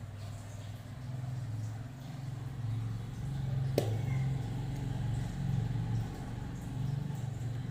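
Low, wavering motor hum, like an engine running, with a single sharp click about four seconds in.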